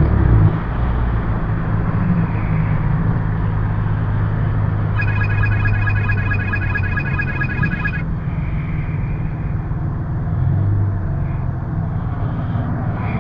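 Car engine and road noise heard from inside the cabin while driving, a steady low drone. A little before the middle, a rapid high-pitched repeating beep runs for about three seconds.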